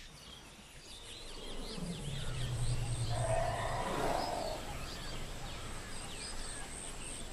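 Tropical forest ambience: many small birds chirping and twittering, with a thin steady high whine. A low drawn-out tone comes in about two seconds in and fades out about two seconds later.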